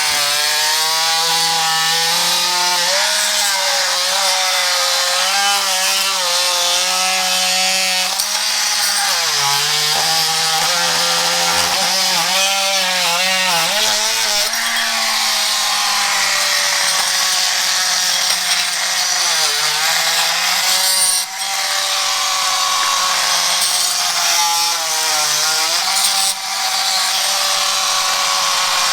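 Milwaukee M12 brushed oscillating multi-tool running continuously as its blade is worked into floor tile to scrape it off concrete. Its pitch sags and wavers as the blade is pressed into the work, with two brief dips about 21 and 26 seconds in.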